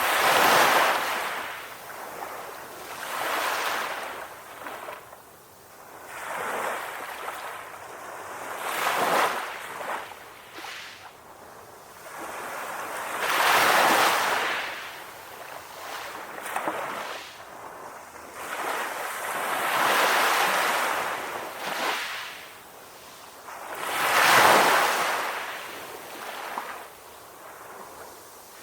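Calm ocean waves washing in, each surge of surf swelling and fading every three to four seconds, the strongest waves near the start, about halfway through and near the end.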